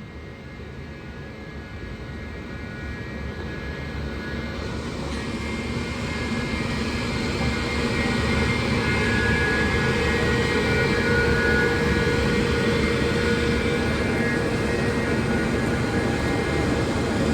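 Train approaching, its locomotive's drone with several held tones growing steadily louder over about eight seconds, then holding as it runs close by.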